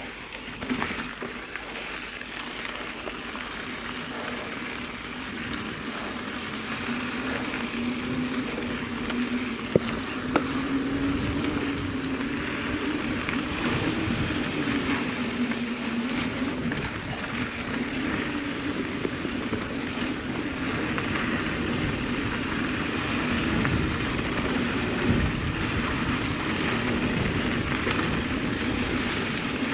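Mountain bike descending a dirt trail: wind rushing over the microphone and tyres rolling on dirt and gravel, with a low hum that wavers up and down with speed and an occasional sharp click or knock.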